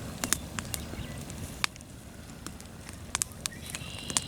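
Campfire crackling, with irregular sharp pops and snaps over a low steady background.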